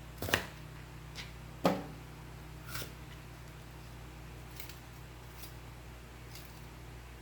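Kitchen prep handling on a counter: two sharp knocks in the first two seconds, then a few light clicks and taps.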